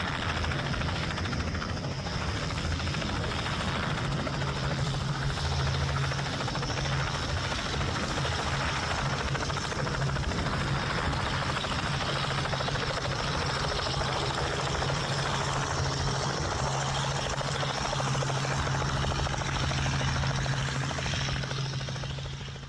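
Helicopter engine and rotor running steadily, a continuous low hum under a wide rushing noise, fading out at the very end.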